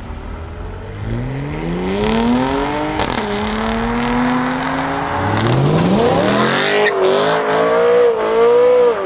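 Performance car engine accelerating hard as it pulls away, its pitch climbing steeply. It drops sharply at a gearshift about three seconds in, then climbs again in a second hard rise before holding high near the end.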